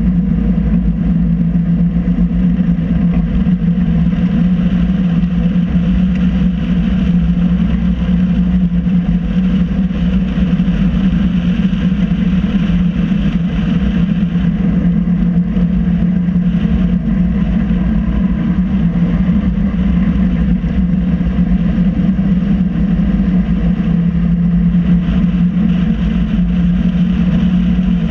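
MG Midget race car's four-cylinder engine heard from inside the open cockpit, running at steady revs at a reduced safety-car pace, with a steady rush of noise over it.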